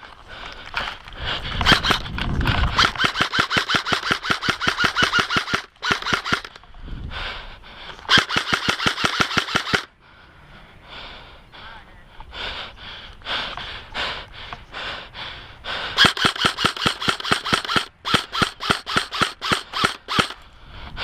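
Airsoft rifles firing in full-auto, several long rapid bursts of sharp cracks about ten a second, with short breaks and a stretch of fainter, more distant firing in the middle.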